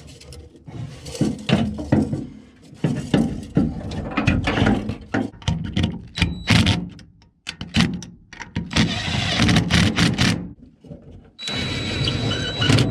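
Irregular knocks, clanks and scraping of hand work on metal parts while a pickup's replacement fuel tank is fitted, with a few abrupt breaks.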